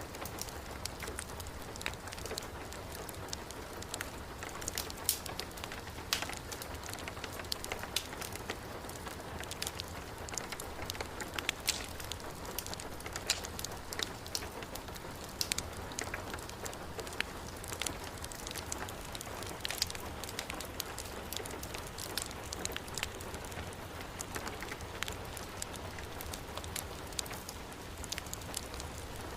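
Heavy rain falling steadily, mixed with a wood fire crackling in a fireplace: irregular sharp pops and snaps over the even hiss of the rain.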